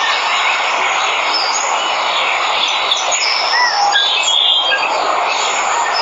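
Steady rush of falling water from a waterfall, with several jungle birds chirping and whistling short calls over it.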